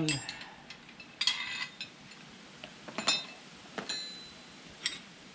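Steel sockets and a socket wrench clinking as they are handled, with a handful of separate metal knocks. Several of the knocks ring briefly, and a rattle of clinks comes about a second in.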